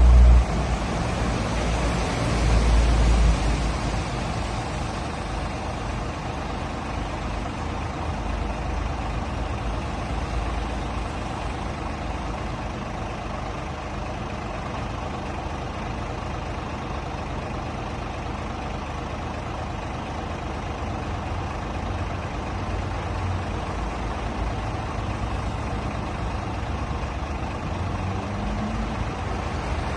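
Scania R450 truck's 13-litre six-cylinder diesel engine running with a steady low rumble, louder in two short surges in the first few seconds.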